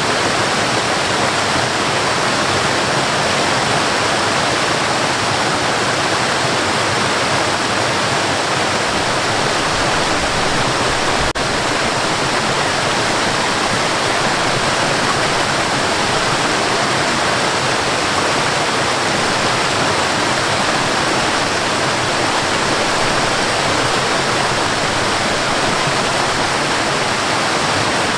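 Waterfall rushing steadily, with a single brief drop in level about eleven seconds in.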